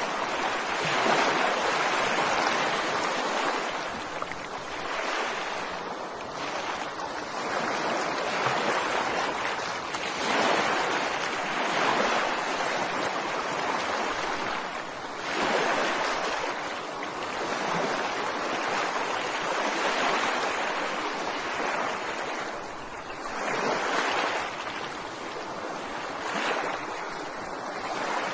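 Ocean waves breaking and washing on a beach, a steady rush of surf that swells and ebbs every few seconds.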